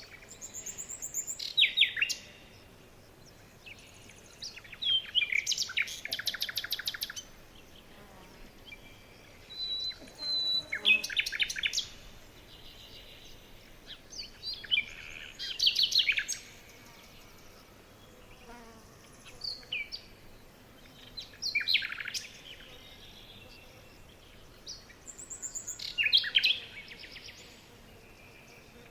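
Songbird singing in separate phrases about every four to five seconds. Each phrase is a second or two of quick, falling whistled notes and rapid trills.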